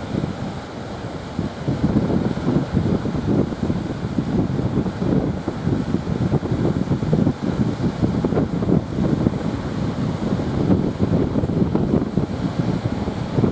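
Strong wind buffeting the microphone in uneven gusts, with the rush of sea surf behind it.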